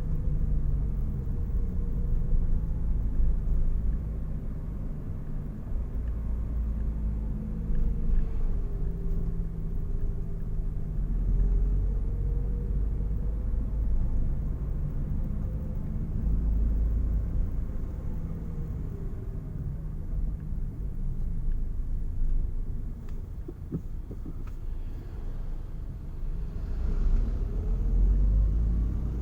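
Car on the road: a steady low rumble of tyres and engine, with the engine's pitch slowly rising and falling several times as it speeds up and slows.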